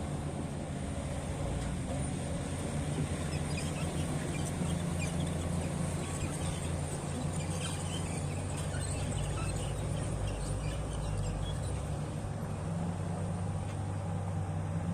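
Heavy mining machine's diesel engine running steadily with a low, even drone, joined by faint short high chirps through the middle of the stretch.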